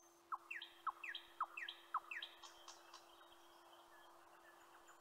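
Bird chirping: a quick series of short downward-sliding chirps, about two a second, that fades out about halfway through, over a faint steady hum.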